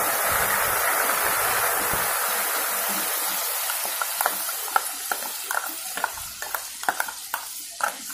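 Wet onion, garlic and ginger paste sizzling in hot oil with browned onions in a kadai, loudest at first and slowly dying down as it settles. From about halfway, scattered sharp clicks and pops as a silicone spatula scrapes the last of the paste from the bowl into the pan.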